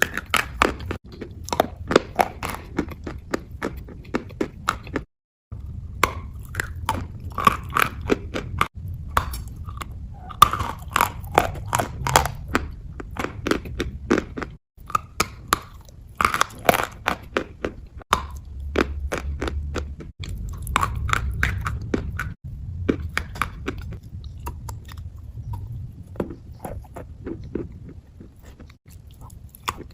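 Close-miked ASMR wet crunching: rapid crisp crackles of bites and chewing through something crunchy coated in a soft paste, coming in bursts. There are several abrupt cuts between clips.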